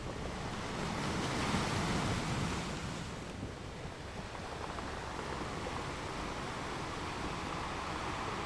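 Ocean surf washing onto a shore, with one wave surging louder about a second in and falling away, then a steady wash.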